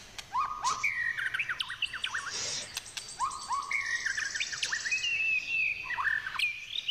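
Birds singing: many short, quick chirps and whistled notes, overlapping one another. For a second or so near the middle there is a high buzzy trill.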